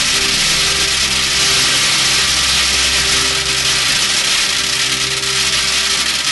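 A steady stream of metal BBs pouring into a tin can, making a dense, continuous metallic rattle.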